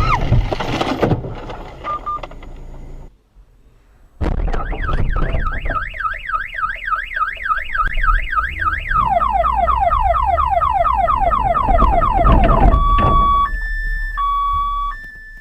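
A loud crash-like thump right at the start. After a brief gap, a car alarm sounds, cycling through its tones: a fast up-and-down warble, then a run of rapid falling chirps, then alternating high and low steady tones.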